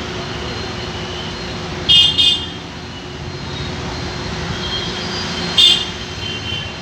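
Road traffic noise with vehicle horns honking: a quick double honk about two seconds in and another short honk near the end.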